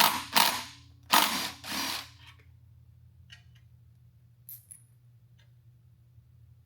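A ratcheting tool is run in four quick bursts over about two seconds, turning a fastener during transmission reassembly. Then come only a few faint clicks over a steady low hum.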